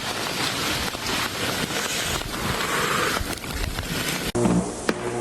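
Ice-storm ambience: a steady rushing hiss of wind through ice-laden trees, with a few faint sharp cracks of limbs giving way. A little over four seconds in, it cuts abruptly to background music.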